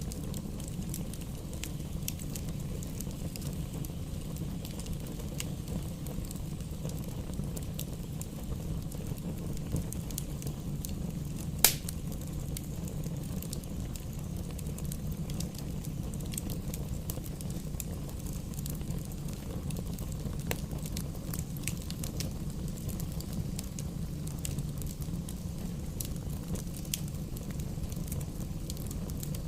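Fire burning in a fireplace: a steady low rumble with scattered small crackles and one loud pop about twelve seconds in.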